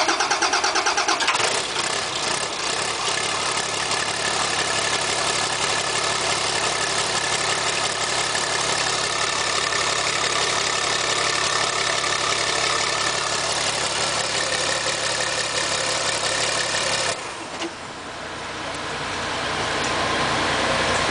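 Turbocharged bus engine on an engine stand, run without coolant, cranked by the starter for about a second and a half, then catching and running steadily on its first start after a new cylinder head and block. About seventeen seconds in the sound drops suddenly, then slowly builds back up.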